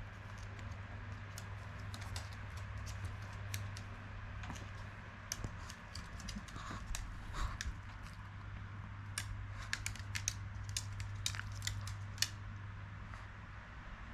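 A small dog playing with a ball on a hard floor: many irregular light clicks and taps, busiest in the middle, over a steady low hum.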